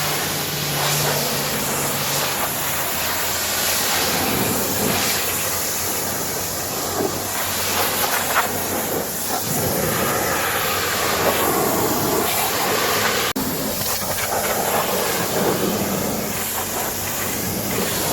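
Pressure washer spraying water against a truck: a steady hissing spray.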